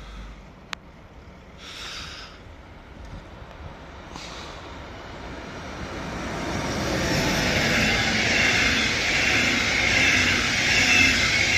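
Berlin S-Bahn electric train running past the platform, its rumble building from about six seconds in to a loud, steady rush near the end. A sharp click comes just under a second in.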